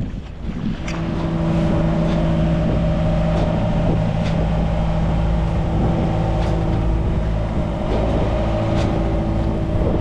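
A sailboat's inboard auxiliary engine running steadily, with a constant even hum. The hum sets in about a second in.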